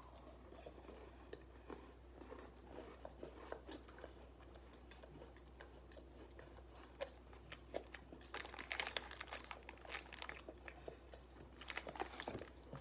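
A person crunching and chewing an Oreo-style chocolate sandwich cookie, faint crisp crackles throughout with louder spells of crunching about eight to ten seconds in and again near the end.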